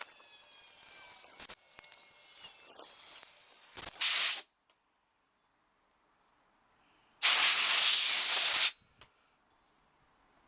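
Two loud bursts of hissing spray: a short one about four seconds in and a longer one of about a second and a half near the end.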